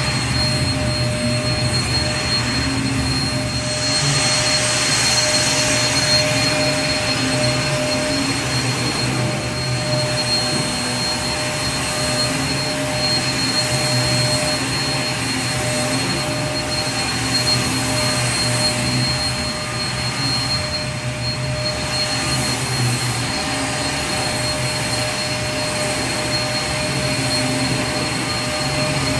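Vacuum cleaner running steadily: an even rushing whir with a constant hum and a thin high whine, the motor's pitch unchanging throughout.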